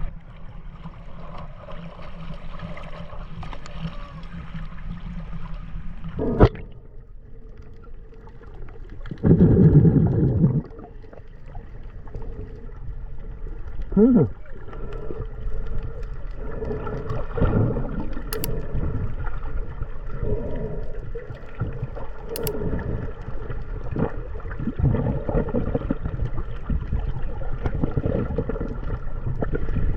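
Water sloshing and gurgling around a camera as it dips in and out of the water while snorkeling, with a sharp knock about six seconds in and a loud rush of water about nine seconds in, then repeated surges of sloshing.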